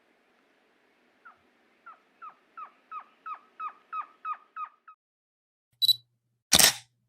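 A bird calling a series of about eleven short whistled notes, about three a second, each dropping in pitch, growing louder as it goes. Near the end come a brief sharp sound and then a short, loud noise burst.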